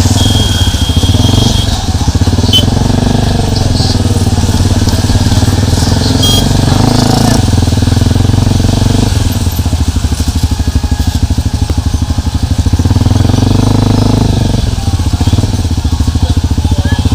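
Motorcycle engine running steadily under way, its rapid firing pulses heard close up. A brief high-pitched tone sounds near the start and again about six seconds in.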